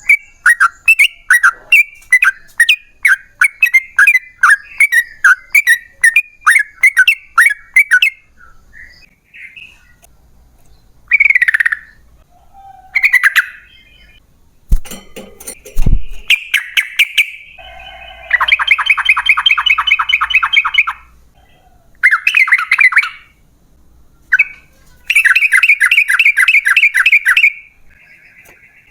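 Yellow-vented bulbul song: first a quick run of sharp chattering notes, about two a second, then after a pause short calls and several long, fast rattling trills. Two dull thumps come about halfway through.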